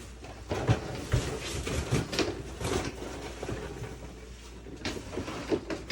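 Irregular knocks, clatter and rustling of junk and objects being shifted around by hand, about one or two knocks a second.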